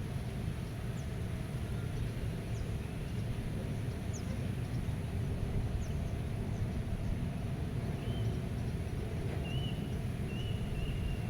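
Wind rumbling steadily and low, with faint short high bird chirps scattered through it. A bird gives a few brief whistled notes near the end.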